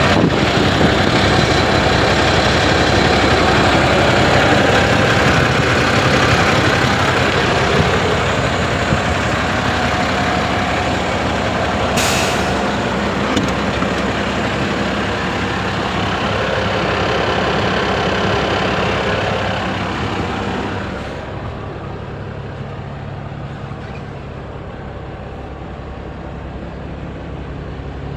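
Renault Midlum 220 dCi truck's diesel engine running loudly, with a brief sharp hiss of air about twelve seconds in. About twenty-one seconds in the sound drops and settles to a quieter, steady idle.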